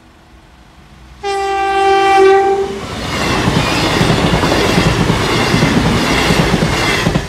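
A CrossCountry Class 221 Super Voyager diesel-electric multiple unit sounds its horn about a second in, one steady blast of about a second and a half. It then passes close by with a loud rush of wheels on rail and underfloor engines.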